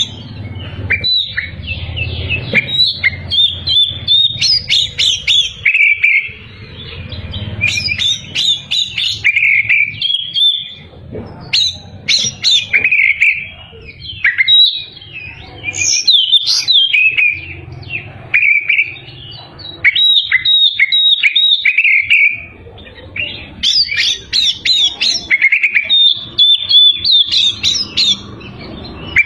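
Oriental magpie-robin (kacer) in full, continuous song: loud, varied whistled phrases and quick trills, broken by short pauses every few seconds, over a faint low hum.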